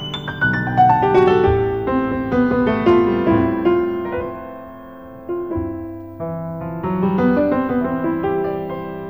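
Solo piano music: a slow, gentle melody of single notes that ring and fade over held lower notes.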